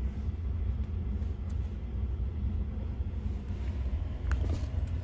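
Steady low rumble of a truck heard from inside its cabin, its engine running, with a few faint ticks.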